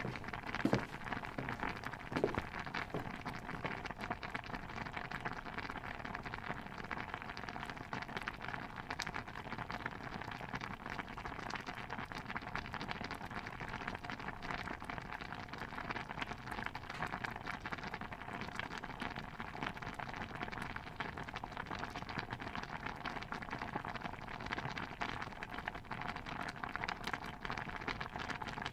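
Stew bubbling steadily in a pot, a dense patter of small pops and crackles. Two soft knocks stand out near the start, about a second and two seconds in.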